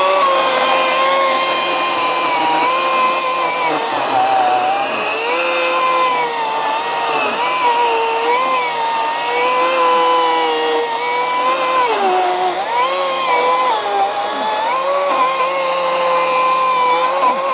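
Ryobi 40V brushless 18-inch battery chainsaw cutting into a stump: a steady electric motor whine that drops in pitch several times as the chain bogs down in the wood, then picks back up.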